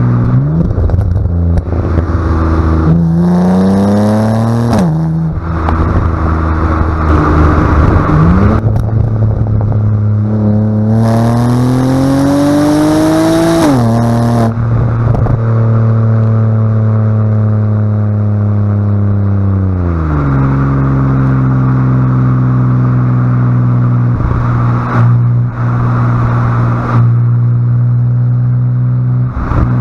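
2011 BMW Z4 3.0i's inline-six engine through an aftermarket Remus exhaust with the secondary catalytic converters deleted, driven on the road. It rises in pitch under acceleration three times, each rise ending in a sudden drop, then runs at a steady pitch that steps down about twenty seconds in.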